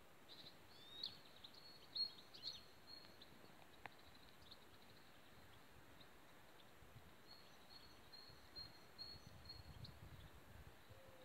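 Faint, high bird chirps over near silence: a few short gliding calls in the first three seconds, then a run of quick chirps later on.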